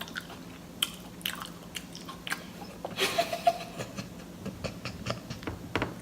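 Close-miked chewing and biting of a Subway sandwich: soft wet clicks and crunches at irregular intervals, with a brief rustling noise about three seconds in.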